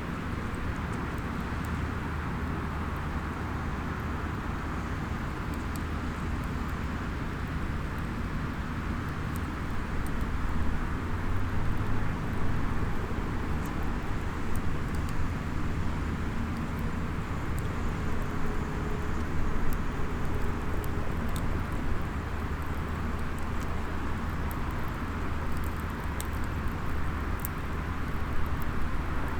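Small wood fire in a SOTO mini fire stand, giving faint sharp crackles now and then over a steady low rumble of outdoor ambience. The rumble grows a little louder about ten seconds in.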